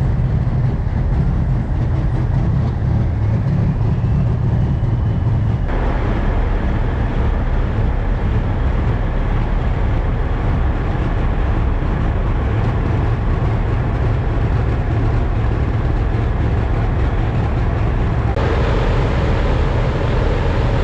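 Heavy diesel semi-truck engines running, a steady low rumble. The sound shifts abruptly about six seconds in and again near the end.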